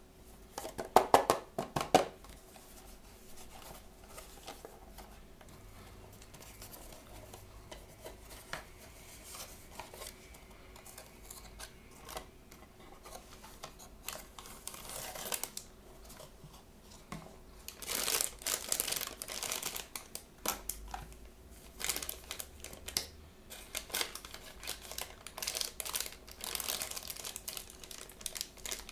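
Hands opening blind-bag toy packaging: plastic wrapper crinkling and tearing in bursts, with a few sharp knocks and clicks about a second in.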